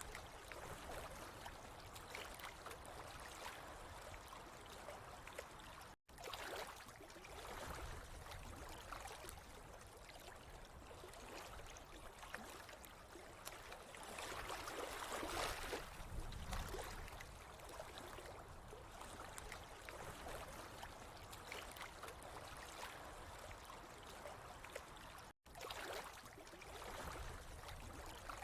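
Water trickling and gurgling steadily, growing louder for a couple of seconds midway, with two split-second dropouts where the sound cuts out.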